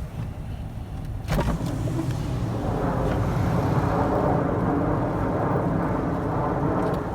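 Pickup truck engine running over rough ground, with a thump about a second in, after which the engine gets louder and stays loud.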